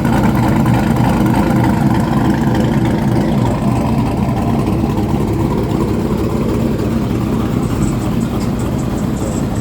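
Car engine running loudly with a steady low rumble that eases slightly over the second half.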